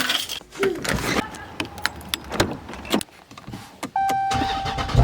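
Clicks, knocks and rattles of someone handling a car's door and keys, then a steady electronic chime from about four seconds in.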